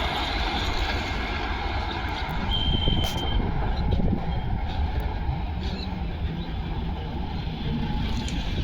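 Rumble of a passing express train dying away as it recedes, leaving a steady low rumble.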